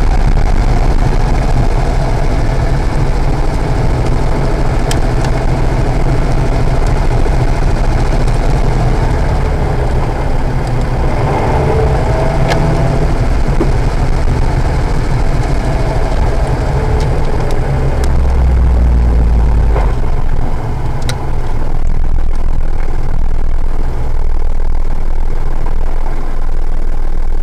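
Acura NSX's V6 engine running steadily at low load, with a few faint clicks over it.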